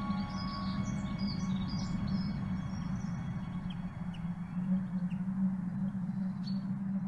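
Small birds chirping in quick, high twitters over a steady low hum. The chirps are thickest in the first few seconds and thin out toward the end.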